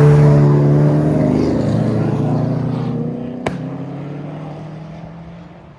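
A car's engine passing close by and pulling away, its exhaust note falling slightly in pitch and fading steadily over several seconds. A single sharp pop comes about three and a half seconds in.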